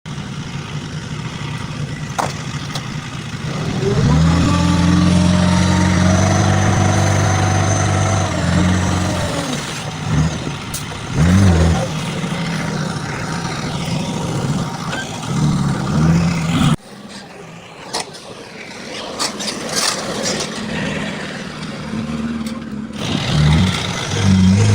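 Heavy vehicle diesel engines running and revving, the pitch rising and falling several times. The sound drops abruptly about two-thirds of the way through, then the engines build again near the end.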